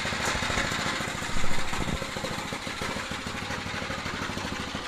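Small mini bike engine running, with a brief louder rev about a second and a half in before it settles back to a steady idle.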